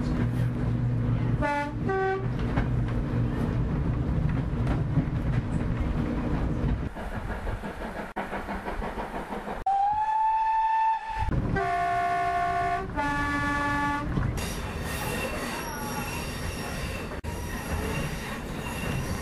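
Diesel express train running with a steady low rumble, giving two short horn toots about a second and a half in. About ten seconds in a steam locomotive whistle blows once, sliding up at the start and then holding steady. Two blasts of the diesel's multi-note horn follow, then a high-pitched squeal of wheels on rails as the train brakes hard.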